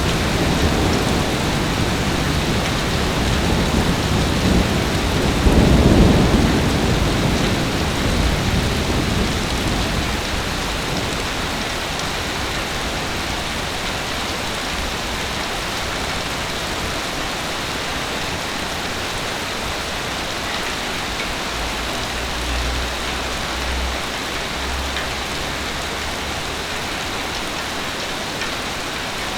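Heavy rain pouring steadily. A low rumble of thunder builds over the first few seconds, peaks about six seconds in and dies away by about ten seconds.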